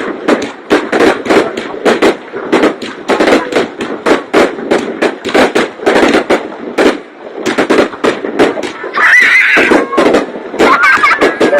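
Fireworks bursting in rapid, dense volleys of sharp bangs, many per second, easing off briefly past the middle. Near the end, high gliding whistles or cries rise over the bangs.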